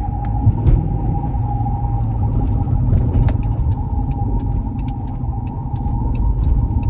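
Ex-police Dodge Charger's engine running with a steady low rumble, heard from inside the car, with a faint steady whine over it.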